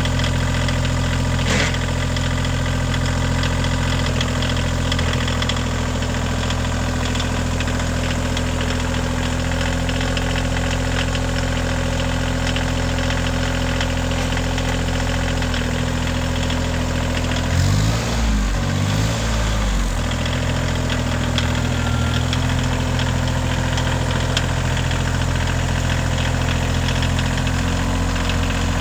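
Kioti CX2510 compact tractor's three-cylinder diesel engine idling steadily. About two-thirds of the way through, the engine note wavers for a couple of seconds, then settles back to the same idle.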